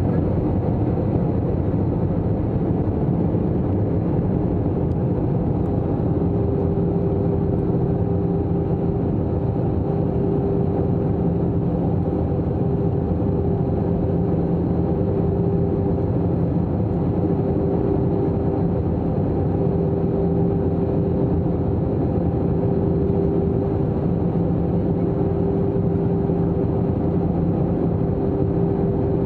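Steady cabin noise inside an Airbus A321-200 in flight: even engine and airflow rush with a constant low hum.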